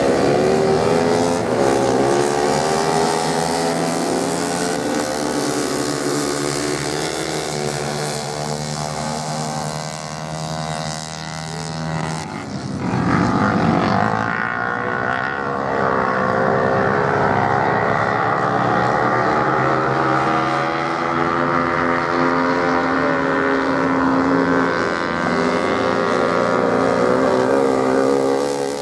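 Motorcycle engines racing on beach sand, several engines at once rising and falling in pitch as the riders rev and change gear. About halfway through a louder rushing pass.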